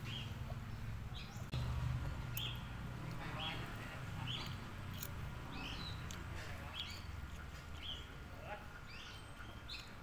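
Small birds chirping: short, slightly falling calls repeated about once or twice a second, over a steady low rumble.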